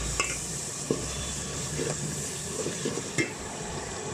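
Curry masala sizzling and hissing steadily in a pot of hot ghee just after a splash of water, with a few sharp knocks about a second apart.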